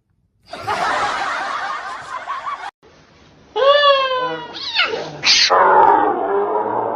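A cat meows once, a short rising-and-falling call about three and a half seconds in, among people's voices and laughter, with abrupt cuts between clips.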